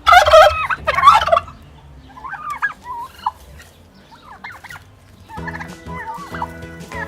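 Turkeys gobbling: two loud gobbles right at the start, then quieter, wavering gobbling calls.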